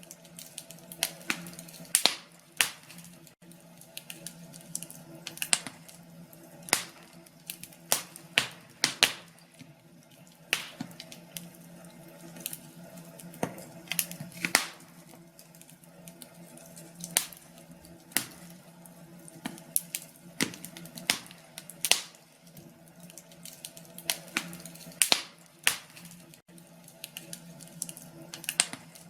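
Wood fire crackling, with sharp pops at irregular intervals several times a second over a faint steady low hum.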